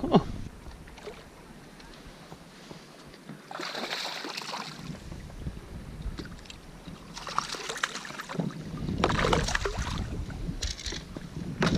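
Water splashing and sloshing around a fishing kayak in several separate bursts, over low wind noise.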